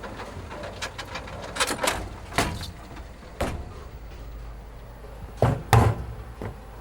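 Irregular knocks and clicks, about ten in all, with two heavier thuds near the end, over a faint steady low hum.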